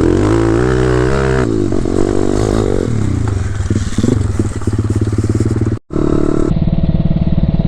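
Pit bike's single-cylinder petrol engine revving, its pitch rising and then falling, then running on at a steadier speed. It cuts out abruptly for a moment just before six seconds in, then carries on steadily.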